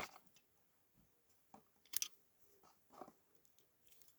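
A few faint, sharp clicks and taps of a small diecast toy car being handled as its parts are prised out: one at the start, one about two seconds in and a softer one about three seconds in.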